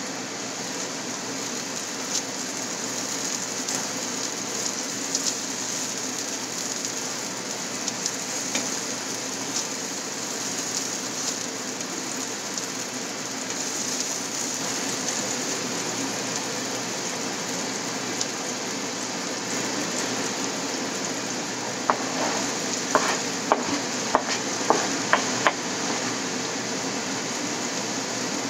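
Onion, garlic and tomato sizzling in hot oil in a nonstick frying pan, stirred with a spatula. Near the end, a run of sharp clicks and knocks against the pan.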